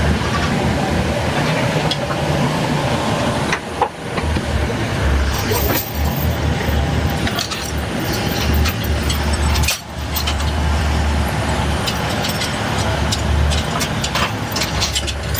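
Crane truck's engine running steadily with a low hum, with scattered sharp clicks and knocks over it.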